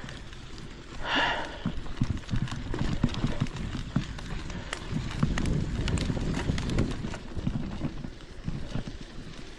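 A hiker's footsteps on a trail: an irregular run of thuds and scuffs, with a short rustling hiss about a second in.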